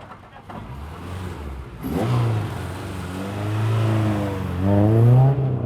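Rally car engine revving hard on the throttle as it comes past. The note dips and then climbs again, and it is loudest just before the end, where it cuts off sharply.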